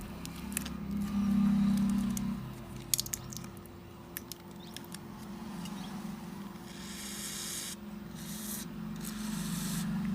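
Scattered light clicks and scraping of small hand tools working on a smartphone, over a steady low electrical hum; in the second half a hiss starts and stops a few times.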